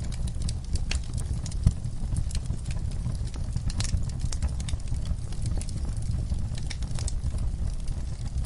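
Wood fire crackling, with frequent irregular small pops over a low steady rumble of flames; one sharper pop about a second and a half in.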